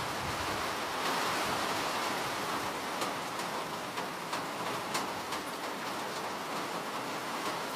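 Steady rain: a dense, even hiss with a few separate drops ticking sharply near the middle.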